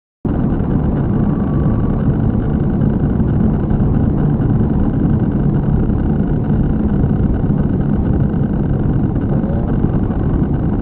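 Steady engine and road noise of a moving car, picked up by a dash camera's microphone inside the cabin, starting abruptly a moment in.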